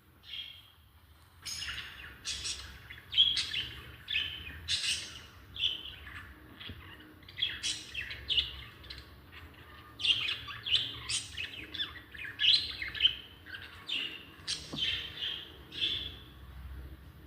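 Lovebirds chattering in rapid, high-pitched chirps and squawks that crowd over one another from about a second and a half in: the calls of birds squabbling.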